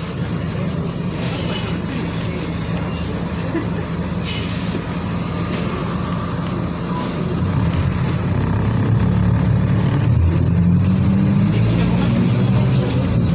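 Mercedes-Benz OF 1722M bus's diesel engine running while the bus is under way, growing louder about halfway through.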